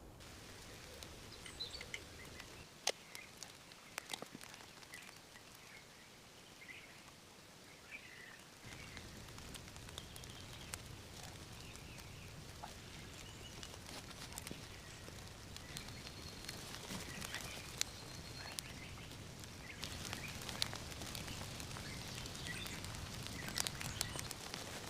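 Faint forest ambience: scattered short animal chirps over a steady hiss, with sharp clicks and snaps throughout. A thin high tone holds for several seconds midway, and the background grows fuller after about nine seconds.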